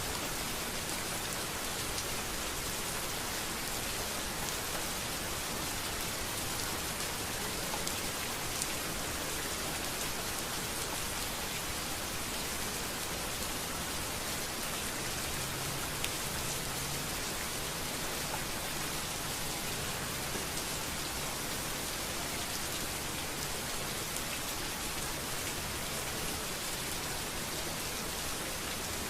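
Steady rain falling on a street, an even hiss with scattered ticks of individual drops.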